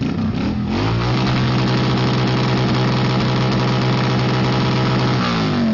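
Yamaha Drag Star 650's V-twin engine revved up and held at a steady high rev for about four seconds for a sound-level reading, then let fall back near the end.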